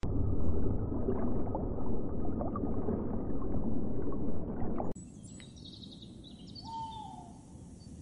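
Muffled underwater rumble and bubbling, which cuts off abruptly about five seconds in. Then small bird chirps follow, with one short whistle that falls in pitch.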